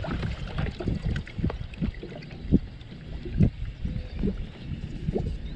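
Choppy water lapping and slapping against a kayak's hull in irregular small splashes, over a low rumble of wind.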